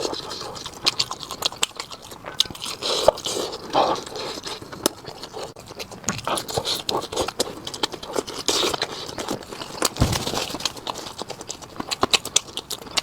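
Close-miked eating: irregular chewing and crunching of fried Spanish mackerel, with many sharp wet mouth clicks and smacks.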